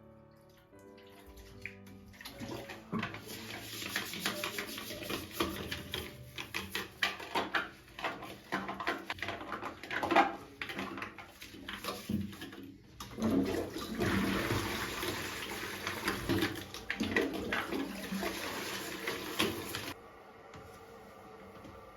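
Water running with repeated knocks and clatters. There is a short break about 13 seconds in, and the sound stops abruptly about 20 seconds in.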